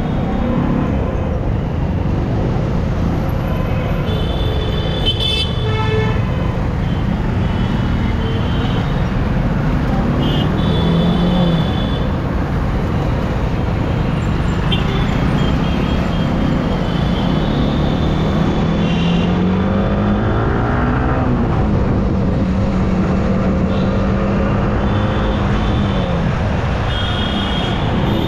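Motorcycle riding through traffic: a dense rumble of engine and road noise, with the engine note rising and falling as the throttle changes. Other vehicles' horns honk briefly several times.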